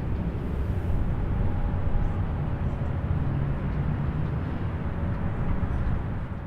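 Steady rumble of distant highway traffic, a continuous wash of tyre and engine noise with a faint hum.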